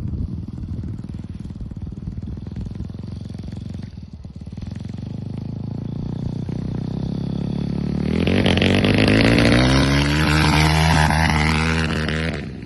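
160cc dirt bike engine running, fairly steady at first with a brief dip about four seconds in. It then builds and gets much louder and higher from about eight seconds in, before dropping away sharply near the end.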